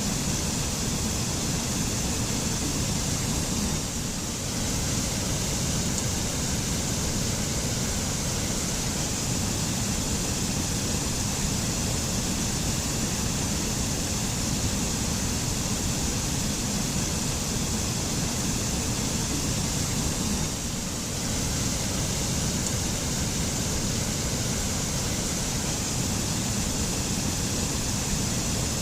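Mountain waterfall in a forest: water falling and rushing steadily, with a brief slight dip in level twice.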